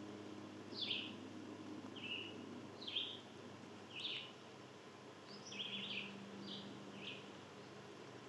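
Small songbird chirping: short sharp chirps, about eight of them at irregular intervals, over a faint steady low hum.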